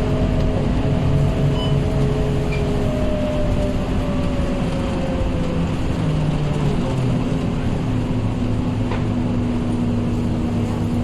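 Scania K230UB city bus running, with the steady rumble of its five-cylinder diesel and drivetrain. A whine slowly falls in pitch over the first six seconds, then the sound settles to a steady hum.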